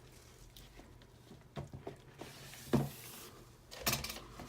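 Soap batter being stirred in a container, with scraping and a few separate knocks of the utensil, the loudest a little under three seconds in.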